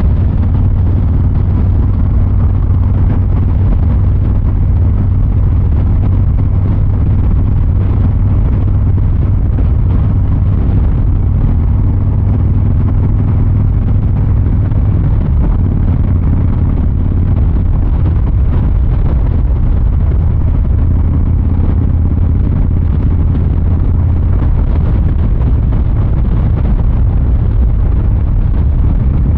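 Exhaust of a 2023 Harley-Davidson Fat Boy 114's Milwaukee-Eight 114 V-twin, running steadily while the motorcycle cruises at an even pace. It is a deep, loud rumble with no hard revving.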